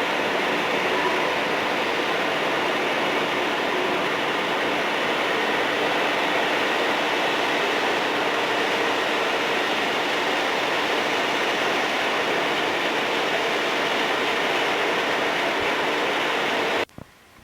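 Train rolling past on the rails: a steady, continuous rumble of cars and wheels that cuts off abruptly near the end.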